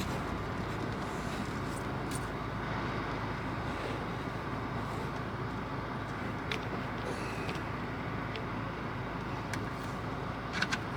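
Steady outdoor vehicle and traffic noise, with a few light clicks in the second half.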